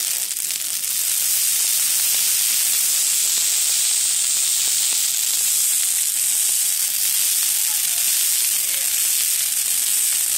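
Large campfire burning freshly added evergreen boughs: a steady, dense hissing crackle of burning needles and wood, a little louder after about a second.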